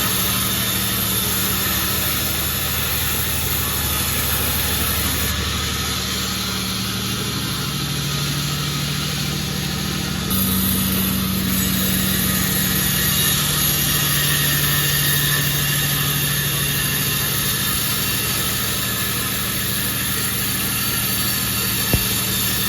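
Sawmill machinery running steadily, with a hum whose pitch and level shift slightly about ten seconds in, and a single sharp click near the end.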